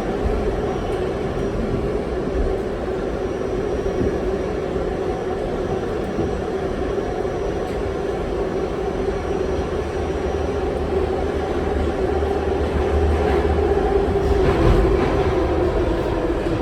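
R68 subway car running along the track: a steady rumble of wheels and running gear, swelling slightly a little after two thirds of the way through.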